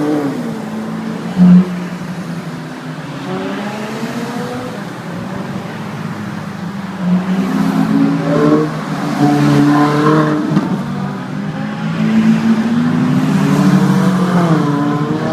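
Ferrari sports-car engines passing one after another in a slow convoy, their pitch rising and falling as they rev and go by, with a short loud blip about a second and a half in. The revving grows louder in the second half as more cars pass.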